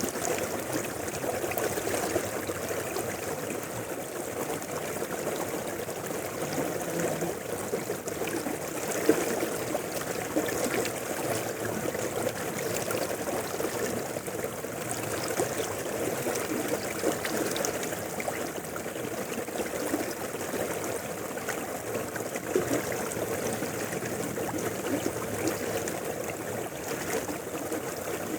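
Mountain river flowing steadily, with an even rush of water and fine trickling detail that doesn't let up.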